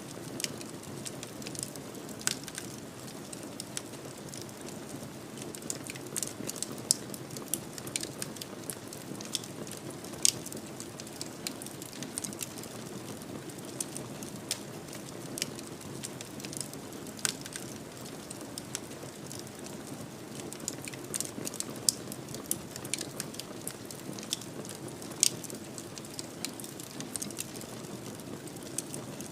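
Wood fire burning in a fireplace: a steady soft rush of flames under frequent, irregular sharp crackles.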